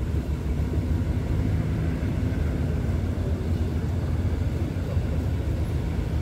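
Diesel passenger train pulling out of the station, its coaches rolling past close by with a steady low rumble.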